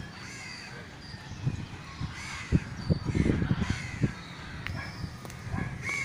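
Birds calling repeatedly in short separate calls, with a low rumbling noise lasting about a second and a half near the middle.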